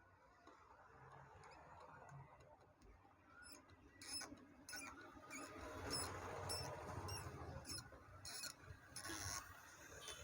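Faint metallic clicks and scraping as the nut on a mixer grinder's new drive coupling is tightened onto the motor shaft. The clicks come irregularly from a few seconds in and grow busier toward the middle.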